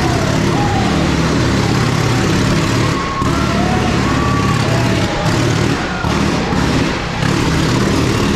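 1927 Indian Scout V-twin engine running hard as the motorcycle circles the Wall of Death. Its pitch rises and falls, and the sound swells and dips with each lap past the microphone.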